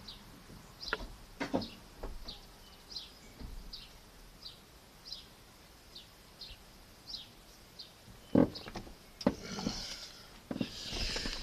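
A bird chirping over and over, short falling notes about twice a second, with a few knocks and thumps, the loudest about eight seconds in, and a sharp click near the end.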